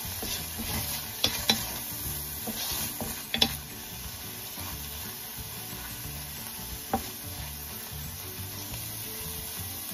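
Ground pork and green peas sizzling in a stainless steel pan while a wooden spatula stirs and scrapes them. A few sharp knocks of the spatula against the pan stand out, mostly in the first few seconds and once more later on.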